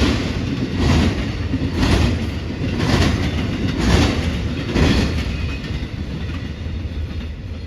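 Freight train's wheels clattering over a railroad diamond crossing: a sharp clack about once a second over a steady rumble, the clacks weakening after about five seconds as the rumble dies down.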